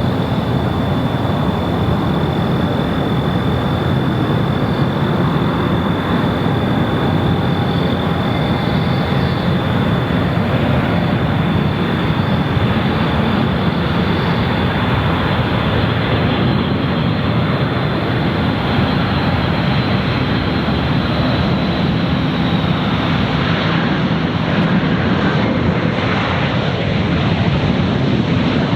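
Jet airliner's engines running loud and steady, with a high whine over the roar that rises slightly near the end.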